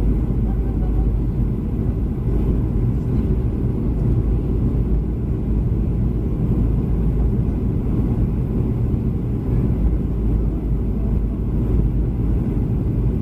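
Steady low rumble of a Boeing 737-300's CFM56 engines and airflow, heard inside the passenger cabin.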